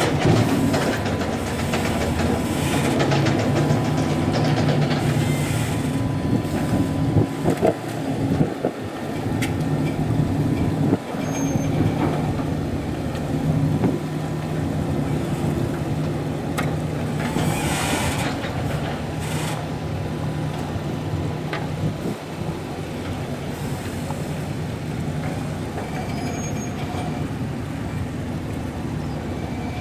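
High-speed passenger ferry's diesel engines running with a steady low drone, with brief swells of noise now and then.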